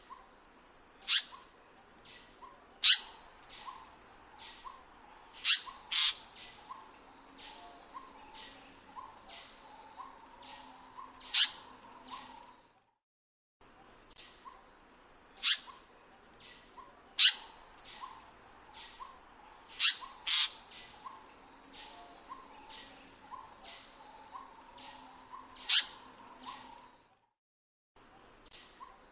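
Indian paradise flycatcher calling: sharp, loud calls every few seconds over a run of fainter, evenly spaced high chirps, with a steady high-pitched buzz behind them. The sound cuts out twice, briefly.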